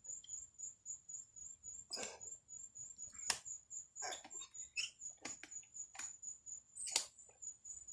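Ratchet strap being tightened around a tire to break the bead: a few sharp, irregular clicks with short squeaks from the strap and mechanism. A steady high-pitched pulsing tone runs underneath.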